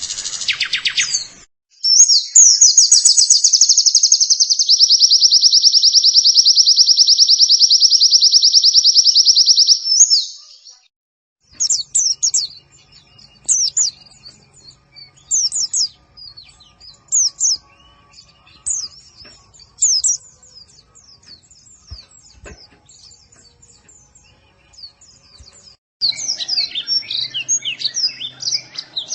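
Recorded songbird song of the kind used as masteran to tutor pleci (white-eyes): a short burst of high chattering, then a loud, very fast, even trill lasting about eight seconds, then a long stretch of scattered short high chirps over a faint low hum, and dense chattering again near the end.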